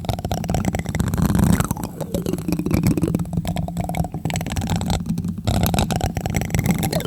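Plastic spoon tapping rapidly on a microphone: a dense, continuous run of close-up taps, heavy in the bass.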